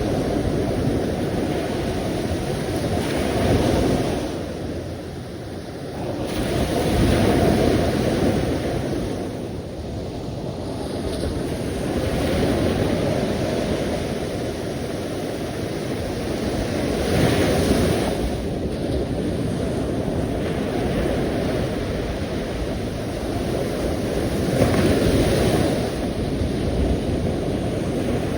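Sea waves breaking and washing in: a continuous rush that swells and eases every few seconds.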